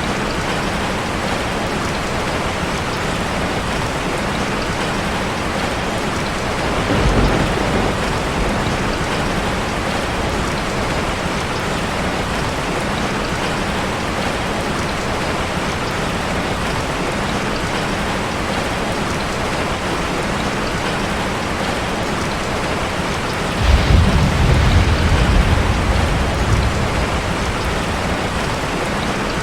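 Heavy rain falling steadily on a car. A short low rumble of thunder comes about seven seconds in, and a longer one starts suddenly near the end and lasts about three seconds.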